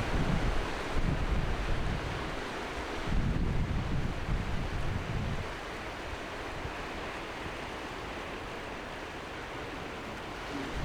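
Sea waves washing on the shore, with wind buffeting the microphone in heavy gusts for roughly the first half; after that the surf goes on as a steady wash.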